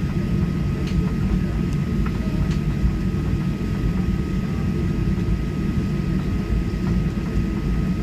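Inside the cabin of a Boeing 737-800: a steady low rumble of the engines and air system, with a thin, steady high whine running over it.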